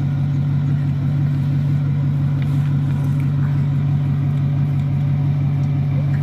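Ford F-350 pickup's engine idling steadily, an even low throb.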